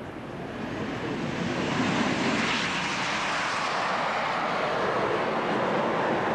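Jet noise from Aermacchi MB-339 jet trainers' Rolls-Royce Viper turbojets on a formation takeoff, building over about the first two seconds and then holding steady and loud.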